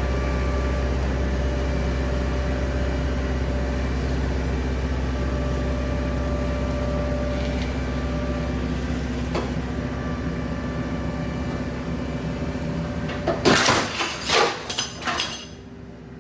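Skid steer engine running steadily, then about thirteen seconds in a quick run of loud metal clanks and bangs lasting about two seconds: a clamp on the truck frame letting go under the lift. The running sound is quieter after the bangs.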